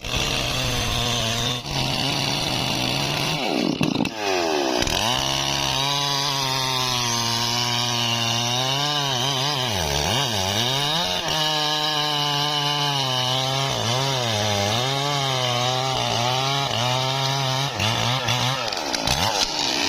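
Two-stroke chainsaw running at high revs, its pitch repeatedly dropping and recovering as the engine bogs under load in the cut.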